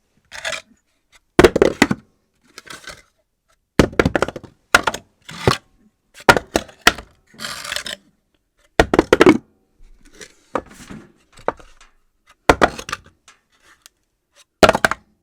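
Objects being dropped onto a floor one after another at irregular intervals, about a dozen sharp knocks and clatters, some rattling on briefly after they land.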